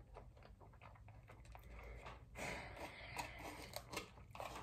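A person chewing food close to the microphone: faint mouth sounds with small clicks, a little louder about halfway through.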